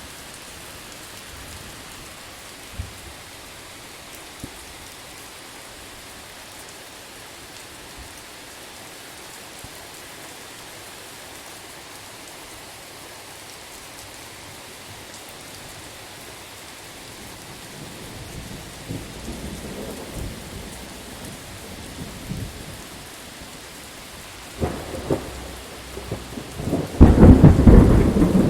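Steady rainfall with thunder: a low rumble builds in the second half, then a sharp crack and a loud thunderclap near the end.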